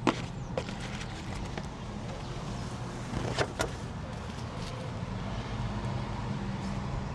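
Car engine idling, a steady low hum heard from inside the cabin, with a few sharp clicks and handling noises near the start and about three and a half seconds in.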